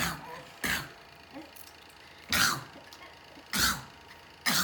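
A child making a funny sound on purpose, a fake cough: four short coughs spaced about a second apart.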